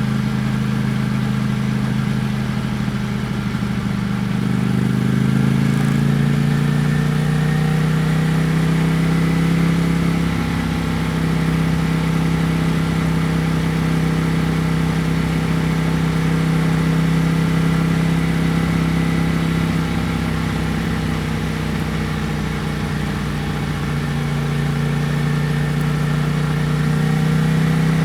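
Ducati Panigale V4 S's 1103 cc V4 engine running under way. Its pitch rises a few seconds in, holds steady at a cruise, then eases slightly and picks up again near the end.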